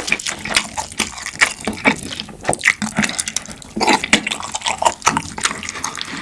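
Close-miked wet chewing and mouth smacking of someone eating: a dense run of irregular sticky clicks and squelches.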